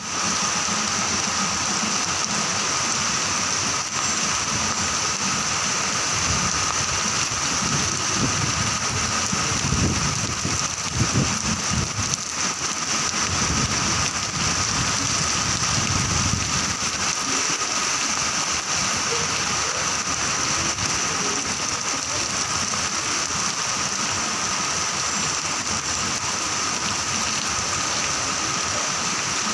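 Steady rain falling, an even hiss throughout, with a low rumble through the middle stretch.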